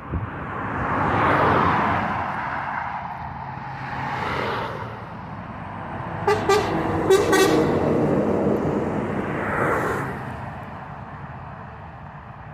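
Trucks passing by one after another, each swelling up and fading away. A horn sounds in several short toots about six to seven and a half seconds in.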